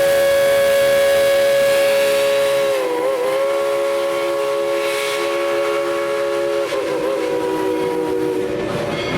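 Steam locomotive No. 190's whistle blowing one long blast, several tones sounding together. The pitch wavers briefly about three seconds in and again near seven seconds, and the whistle weakens and stops just before the end.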